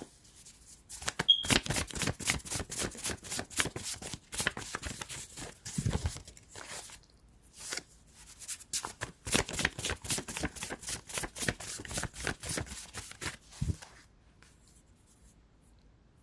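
Tarot cards being shuffled by hand: rapid flicking and rustling of the deck in two spells with a short break between, stopping a couple of seconds before the end.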